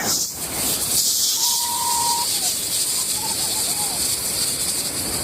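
Steady high rushing hiss of air and rain streaming past a rider on a moving roller coaster, with a faint distant scream held briefly about a second and a half in.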